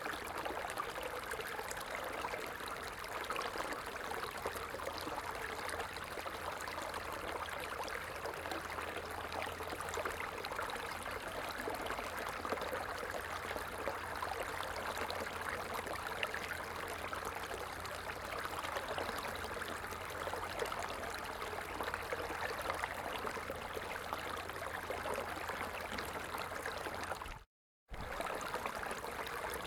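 Stream water running, a steady even rush. It cuts out to silence for about half a second near the end.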